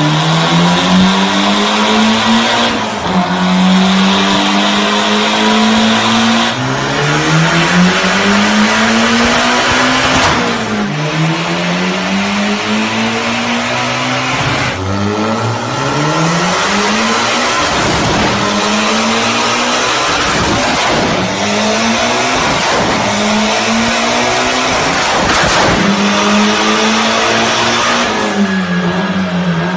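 Mitsubishi Lancer Evolution X's turbocharged 2.0-litre four-cylinder under full load on a chassis dyno. The engine note climbs and then drops sharply at each upshift, about eight times in a row, with sharp cracks from the exhaust at several of the shifts.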